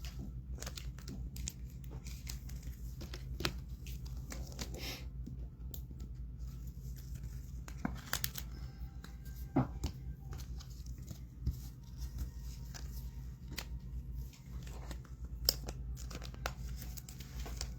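Trading cards being handled and slipped into plastic sleeves: plastic crinkling and rustling, with scattered light taps and clicks.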